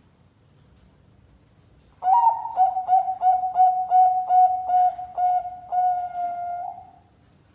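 Zebra dove (Bangkok-strain perkutut) cooing: after about two seconds of quiet, a quick run of about a dozen short coos at one pitch, ending in one longer held coo.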